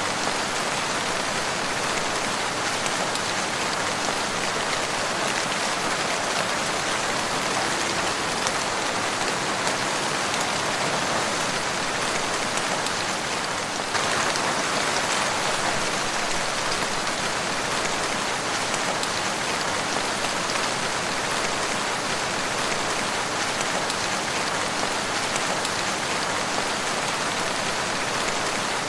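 Steady rain falling, a dense even patter with no letup; the texture shifts slightly about halfway through.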